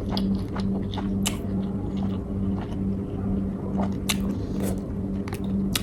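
A person chewing and biting food close to the microphone, with scattered sharp mouth clicks and smacks. A steady low hum runs underneath.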